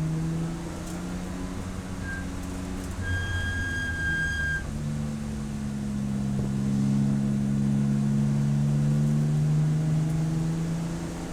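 Race car engine heard onboard: easing off for the first few seconds, then pulling steadily and louder again from about five seconds in. A short high steady whistle with overtones sounds about two seconds in, and a longer one from about three to four and a half seconds.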